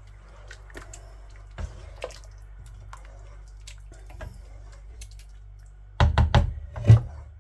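Curry thickened with cornflour simmering and being stirred in the pan, with small scattered pops and ticks. A few loud knocks come about six seconds in.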